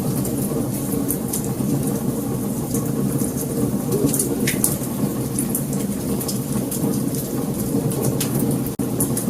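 Wood fire burning: frequent sharp crackles and pops over a steady low roar of flames. The sound drops out very briefly near the end.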